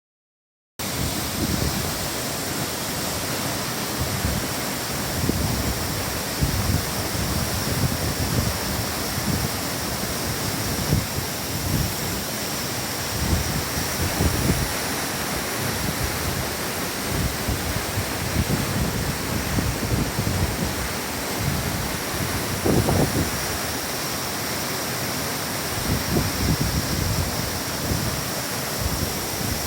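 Waterfall pouring, a steady rush of falling water that starts about a second in, with uneven low rumbling swells through it.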